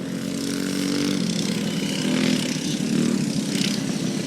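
Mini bike engines racing at high revs, their pitch dropping and shifting about a second in as the bikes pass, over a steady high hiss.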